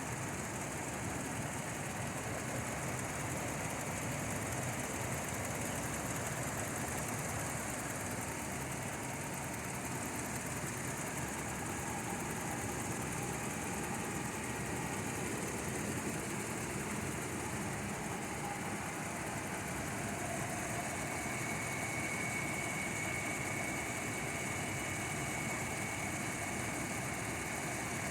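Toyota Land Cruiser Prado's 4.0-litre VVT-i V6 petrol engine idling warm, steady and smooth.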